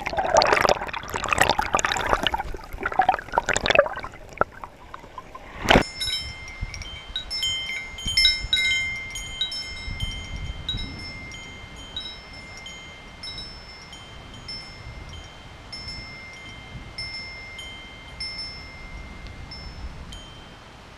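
Wind chimes ringing, with many short, high metallic tones struck over and over and one tone held under them. The chimes start with a sharp click about six seconds in, after a few seconds of a noisy rush.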